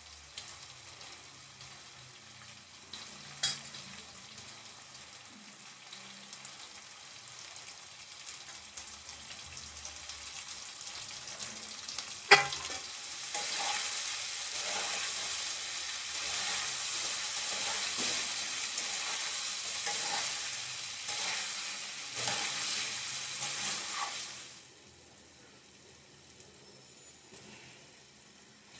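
Diced potatoes, green chillies and chopped tomatoes sizzling in oil in a steel kadai while a spatula scrapes and stirs them in repeated strokes. The sizzle is faint at first. A sharp knock comes about twelve seconds in, then the frying and stirring grow louder before falling away a few seconds before the end.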